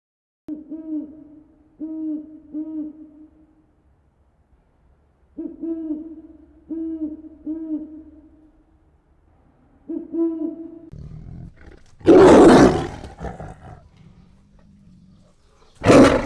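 Animal calls: a low hooting phrase of three notes, given three times, then two loud roars about twelve and sixteen seconds in.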